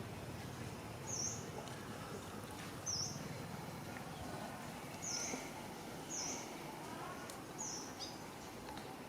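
A bird chirping, five short high chirps a second or two apart over a steady background hiss.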